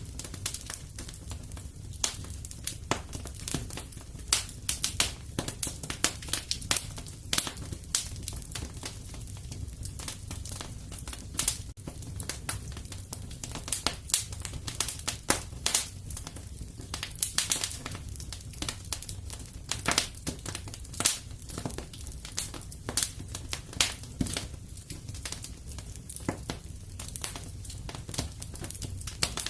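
Wood fire crackling in a fireplace: irregular sharp pops and snaps, a few louder than the rest, over a low steady rumble of burning.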